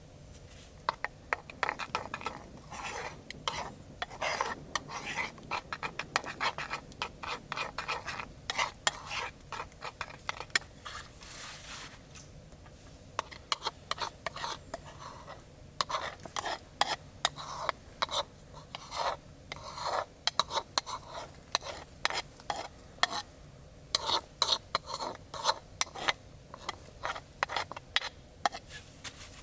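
Metal utensils scraping and clinking against dishes in quick irregular strokes, some strokes ringing briefly, with a couple of short pauses.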